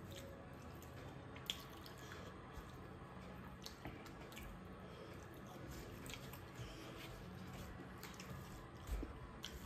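Faint, wet chewing and mouth sounds of someone eating rice by hand, with a few short clicks as fingers pick grains off a banana leaf.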